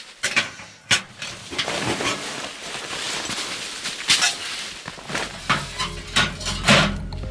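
Knocks, clatter and rustling from camp gear being handled by hand, with several sharp knocks spread through it. Background music fades in about five seconds in.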